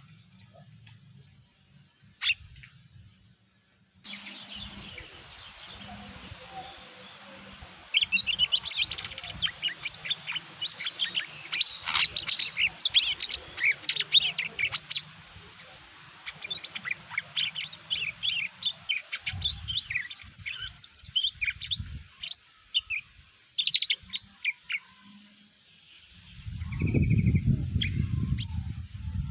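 Cucak ijo (green leafbird) singing a fast, varied run of high chirps and trills that starts about eight seconds in and thins out near the end. A low rumbling noise comes in the last few seconds.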